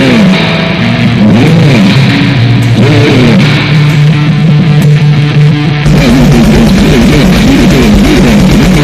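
Loud, heavily distorted electric guitar in a goregrind/noise recording, with sliding, bending pitches. About six seconds in it switches abruptly to a denser, rapidly pulsing wall of noise.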